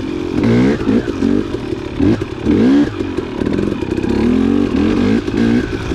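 Dirt bike engine revving up and down, its pitch rising and falling again and again as the throttle is worked.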